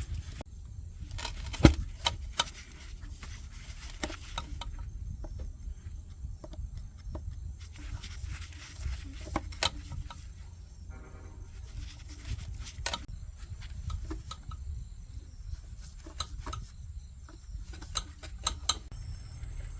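Scattered sharp clicks and knocks, the loudest about two seconds in, over a steady low rumble, with insects chirring faintly in the background.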